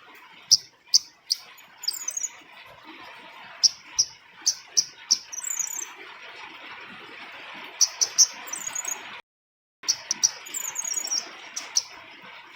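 Female cabai rimba (kemade) flowerpecker calling: sharp, high single chirps in quick runs of three to five, mixed with short higher twittering phrases, over a steady background hiss. The calls break off briefly about three quarters of the way through, then resume.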